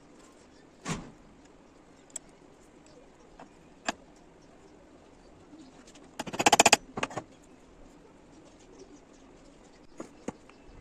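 Scattered knocks and clicks, with a single thump about a second in and a short, rapid rattle about six seconds in.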